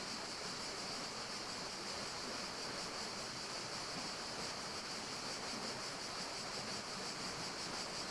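Steady forest ambience: an even, unbroken hiss with a strong high-pitched band that flickers rapidly and evenly.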